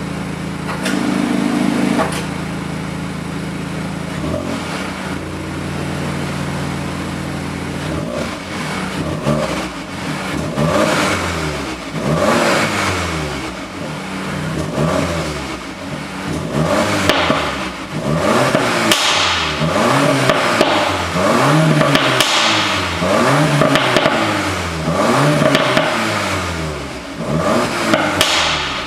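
Volkswagen Golf 8 R's turbocharged 2.0-litre four-cylinder engine and exhaust: steady idle at first, then from about eight seconds in revved again and again, the pitch rising and falling every second or two.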